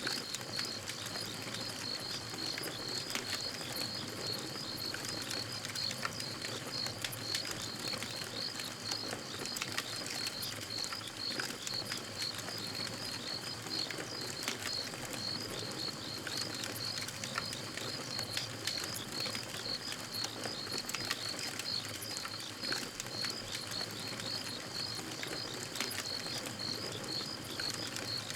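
Campfire crackling, with frequent sharp pops and snaps scattered irregularly throughout. Behind it runs a steady, evenly repeating high chirping.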